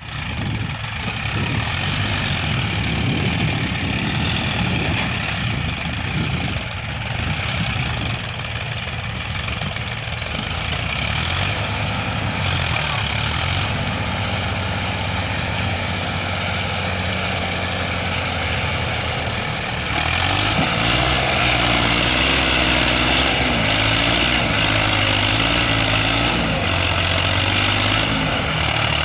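Massey Ferguson 7250 tractor's diesel engine running steadily. About two-thirds of the way through it gets louder, with a wavering tone over the engine note.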